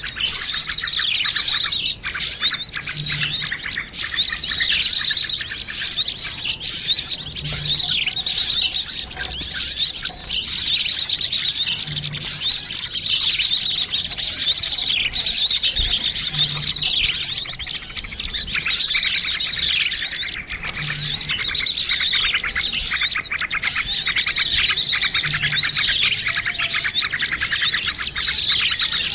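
A dense chorus of many small birds chirping and twittering at once, with quick overlapping chirps and trills that never let up. It is a bird-lure (pikat) recording of noisy small birds, used to draw wild birds in.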